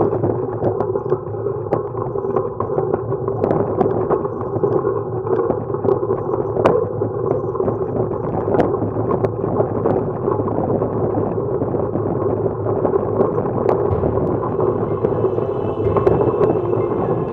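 Steady rushing wind and road noise on the camera microphone of a road bike being ridden, with scattered light clicks and rattles.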